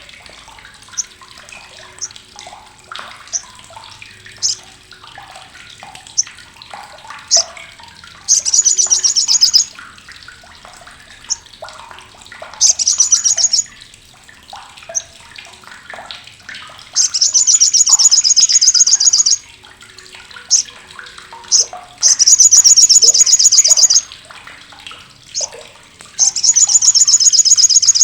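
Olive-backed sunbird (Sogok Ontong, Sriganti) giving its harsh, sharp, loud chattering call ('crecetan'): five rapid high-pitched rattling bursts of one to two seconds each, with single short sharp chips in between.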